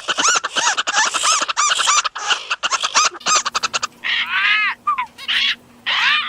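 Bird calls: a fast, dense run of short chirps for nearly four seconds, then slower, separate calls that slide downward, over a faint steady low tone.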